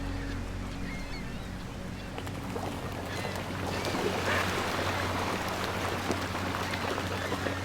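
Wind and surf noise that swells a few seconds in, with a few short seagull calls near the start, under soft sustained background music.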